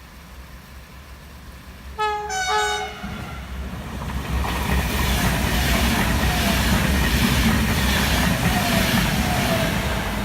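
Train horn sounding two short blasts, followed by a train running through the station, its rolling wheel-on-rail noise building and staying loud for several seconds before easing off.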